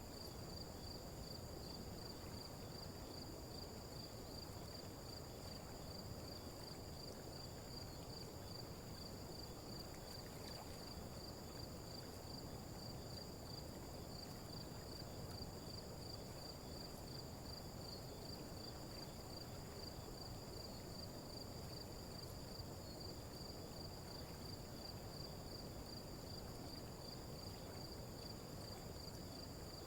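Faint crickets chirping in an even, pulsing trill over a low, steady background noise.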